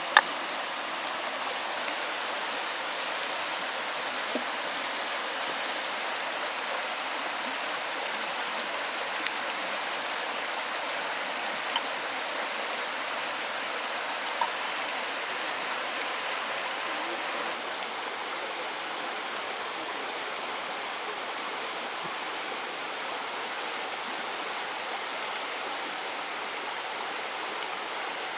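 Steady rushing of flowing water, with a few isolated sharp clicks.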